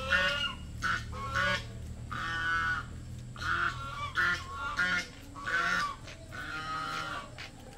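Birds calling over and over, about one short call a second, over a low steady rumble that fades out after about three seconds.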